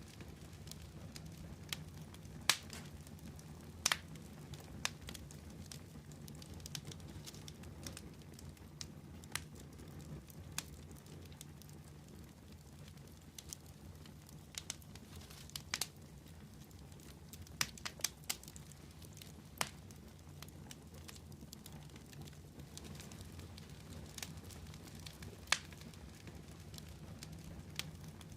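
Wood fire burning with a low steady rumble, and sharp irregular crackles and pops every second or two.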